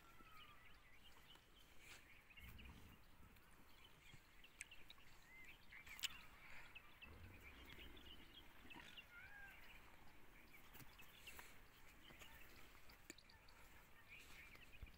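Quiet rural ambience with faint, frequent bird chirps and calls. There is a single sharp click about six seconds in, and two brief low rumbles.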